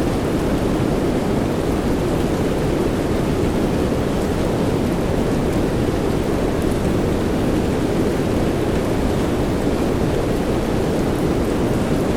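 Steady soft rain as a sleep sound: an even, low-weighted hiss with no pauses, no distinct drops and no change in level.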